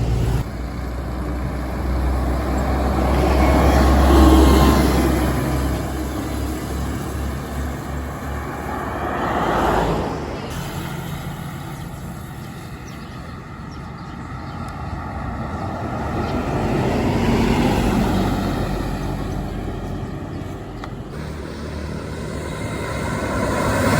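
Road traffic passing one vehicle after another, each engine and tyre noise swelling and fading away, with several pass-bys; a heavy engine's low rumble is strongest in the first few seconds.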